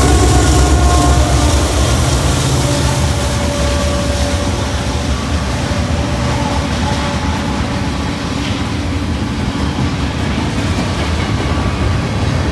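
A Norfolk Southern mixed freight train's cars rolling past close by: steady low rumble of wheels on rail with some clickety-clack, and faint steady whines coming and going. It eases a little in the middle and swells again near the end.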